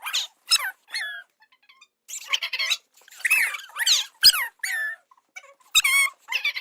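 A quick run of short, very high-pitched squeaky vocal squeals, each gliding up or down in pitch, about two a second with brief gaps.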